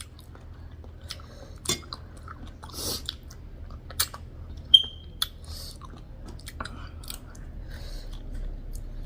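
A person chewing and biting a mouthful of rice, pork and greens close to the microphone, with scattered wet mouth clicks and crackles. A sharp click near the middle is the loudest sound, followed by a brief high squeak.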